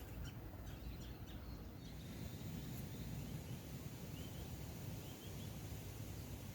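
Outdoor ambience: a steady low rumble with faint bird chirps now and then, a short run of them a little past the middle.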